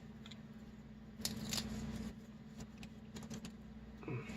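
Faint, scattered clicks and taps of hands handling a painted plastic scale model, with two sharper clicks about a second and a half in, over a steady low hum.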